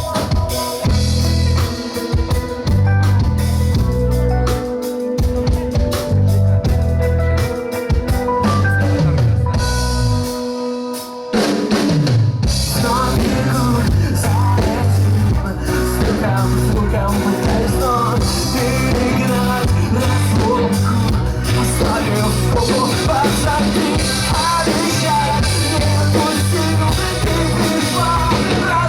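Live rock band playing an instrumental passage: drums and bass under held keyboard chords, with a short drop about eleven seconds in before the full band, guitar included, comes back in more densely.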